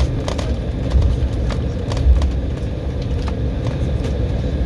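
Embraer E190 airliner cabin noise: a steady low rumble with a faint hum, and scattered light knocks and rattles several times.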